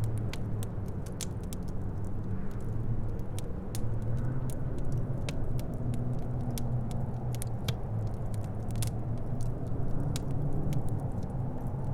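Wood fire crackling in a fireplace, with many irregular sharp pops and snaps, over a steady low rumble of wind.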